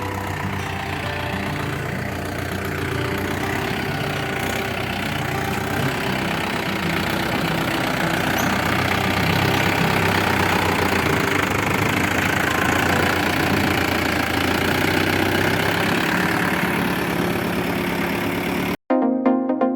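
Mahindra Yuvo 575 DI tractor's 45 hp four-cylinder diesel engine running steadily, growing somewhat louder about halfway through. Near the end it cuts off abruptly and electronic dance music starts.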